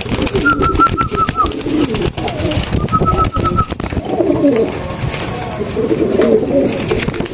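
Pigeons cooing, with two quick runs of about six short high chirps in the first half and scattered clicks throughout.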